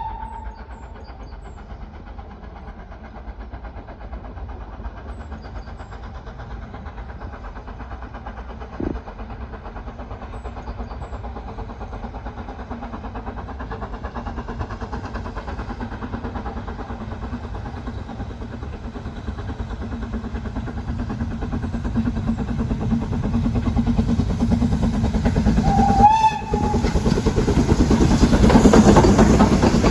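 BR Standard Class 9F steam locomotive working hard on the approach, its exhaust and running noise growing steadily louder and loudest near the end as it draws close. A long whistle cuts off at the very start, and there is a short whistle blast about 26 seconds in.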